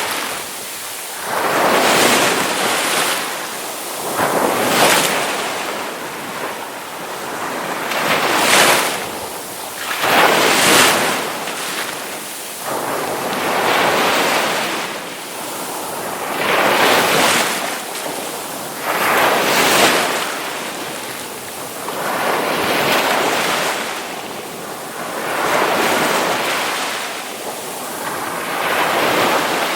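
Ocean surf breaking and washing on a shore: a steady hiss of moving water that swells into a crash about every three seconds and falls back between.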